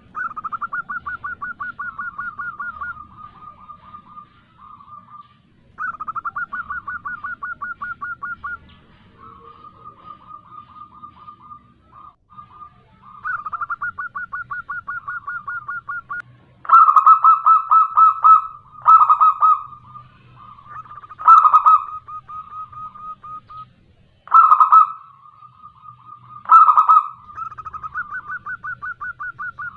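Zebra dove calling: runs of fast, rhythmic trilled coos, with several much louder, harsher bursts in the second half. This is a lure call meant to get other zebra doves calling back.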